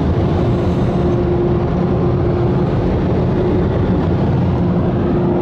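Ryko Radius touch-free car wash air dryers blowing steadily during the drying cycle: a loud, even rush of air with a steady hum running through it.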